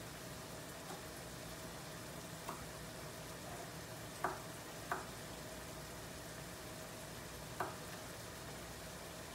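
Food frying in a nonstick pot on the stove, a soft steady sizzle. A few sharp clicks stand out: two close together about halfway through and one near the end.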